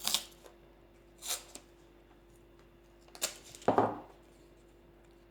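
A few brief rustling and scraping handling noises, about four in a few seconds, over a faint steady hum.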